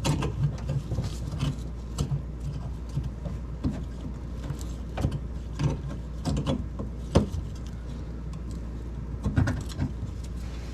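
Irregular clicks and knocks of tools and parts being handled while a refrigerator water valve is fitted to its water line, over a steady low hum, with a sharper knock about seven seconds in.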